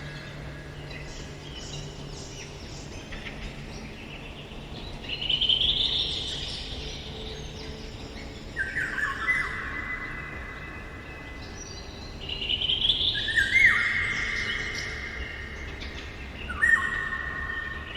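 Songbirds singing in woodland, including a Eurasian golden oriole's fluty whistled song. Clear phrases come every few seconds, some rising in pitch and some held with an echo.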